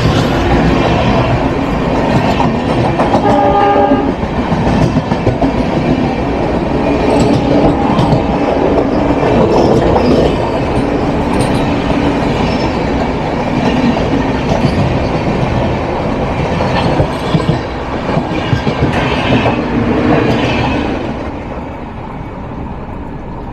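Two Humsafar Express passenger trains running at speed side by side on parallel tracks: steady rumble with wheels clattering over rail joints. A train horn sounds about three to four seconds in, and the noise eases a little near the end.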